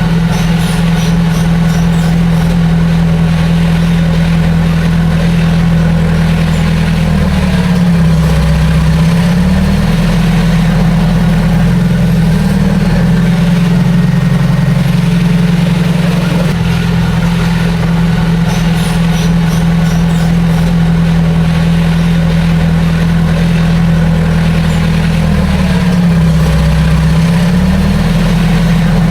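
Heavy diesel earthmoving machine engine running steadily and loud, its pitch sagging briefly and recovering twice, about eighteen seconds apart.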